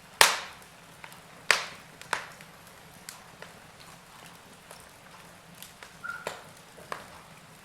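Wood fire crackling in a fireplace: sharp, irregular pops and cracks over a faint steady background, three loud ones in the first half and smaller ones later, with a short faint whistling note late on.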